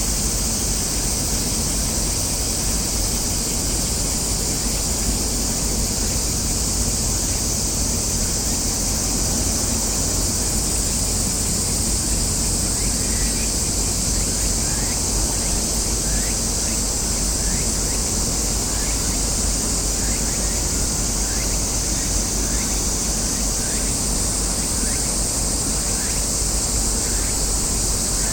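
Steady high-pitched drone of summer cicadas over a low rumble. From about halfway through, a short chirp repeats about once a second.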